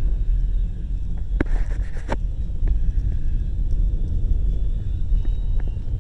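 Car interior while driving: a steady low engine and road rumble, with a couple of faint clicks about one and a half and two seconds in.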